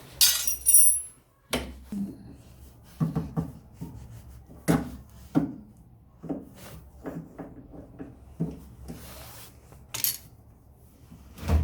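Irregular knocks, clicks and scraping of tools and parts being handled and put down.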